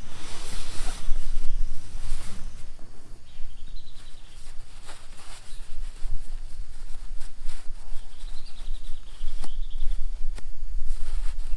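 Forest storm ambience: a steady low wind rumble on the microphone with scattered sharp taps, and a short wavering high bird call heard three times, about 4, 8 and 11 seconds in.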